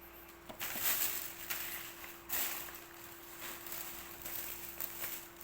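Rustling and handling of gift packaging in irregular swells, with a few small knocks and a faint steady electrical hum underneath.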